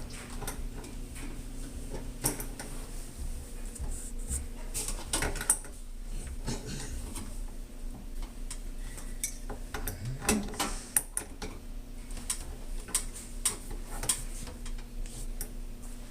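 Irregular clinks and taps of small hard objects being handled, over a steady low hum.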